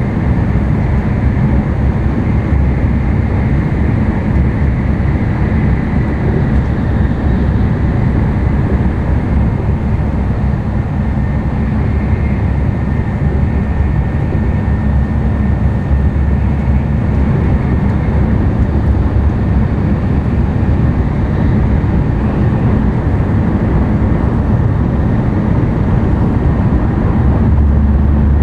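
Interior running noise of an N700-series Tokaido Shinkansen train at speed: a loud, steady low rumble with a faint high whine over it.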